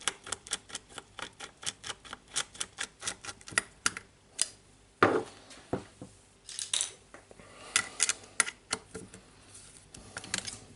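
Rapid, even clicking from a hand screwdriver as a screw is driven in while the jigsaw's base is mounted, about six clicks a second, stopping about four and a half seconds in. It is followed by a single knock and a few scattered clicks as parts are handled.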